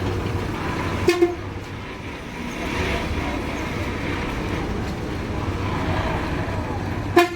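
Bus engine rumbling steadily, with two brief sharp sounds about a second in and near the end.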